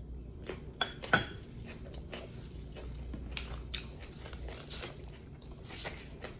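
Close-up eating sounds: a scattered series of short crunches and clicks, the two sharpest about a second in.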